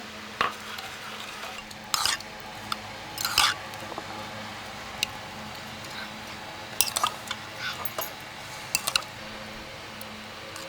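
Kitchen utensils clinking and scraping against dishes and cookware: a handful of short, separate scrapes and knocks at irregular intervals, the loudest about two and three and a half seconds in.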